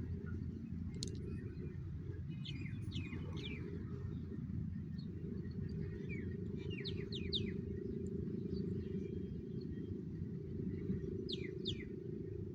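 Small birds chirping in short, quickly falling calls, in a few brief clusters, over a steady low outdoor rumble.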